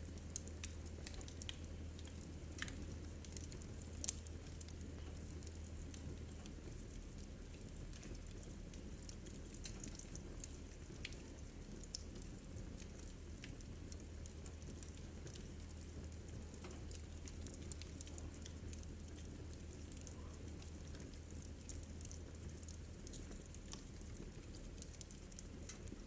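Wood fire burning in a fireplace, crackling faintly with scattered small pops, one sharper pop about four seconds in, over a steady low rumble.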